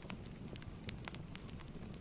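Wood fire crackling in a fireplace: a few irregular sharp pops, the clearest about a second in, over a low steady rumble of the flames.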